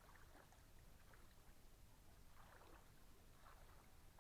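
Near silence: faint background hum with a few faint, short chirps.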